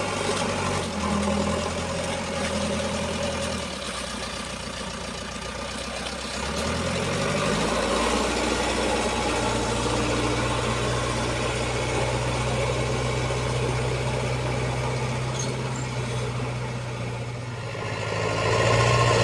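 Heavy diesel engine running, its pitch rising about seven seconds in as it revs up, then holding steady.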